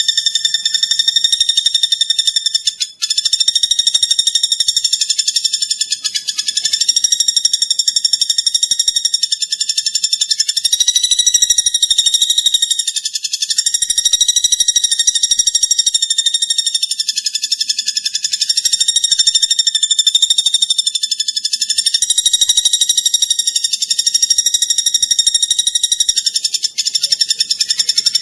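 Platuk bawang bird song: a loud, very rapid high-pitched trill, held almost without a break and wavering slightly in pitch, with a short gap about three seconds in.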